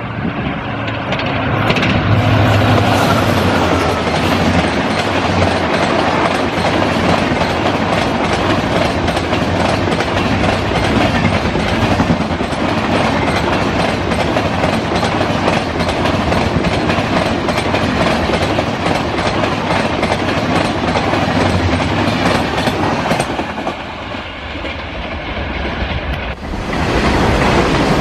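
Train passing close by at speed: a loud, continuous rush and clatter of wheels over the rails. It eases for a couple of seconds near the end, then rises again.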